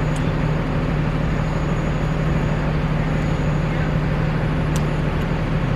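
Steady city traffic noise with a constant low hum underneath.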